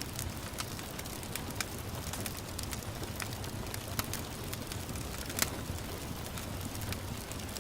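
Wood fire in a fireplace crackling, with sharp pops at irregular intervals, the loudest about four and five and a half seconds in, over a steady hiss of gentle rain.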